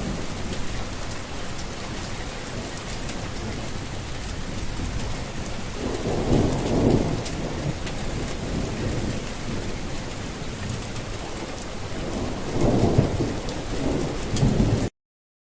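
Steady heavy rain with thunder rumbling twice, about six seconds in and again near the end; the sound cuts off suddenly just before the end.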